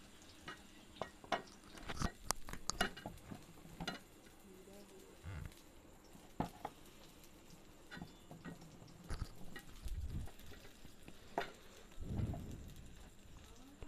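Battered brinjal slices frying in mustard oil on an iron tawa: a light sizzle with scattered pops and clicks, as another battered slice is laid onto the hot pan.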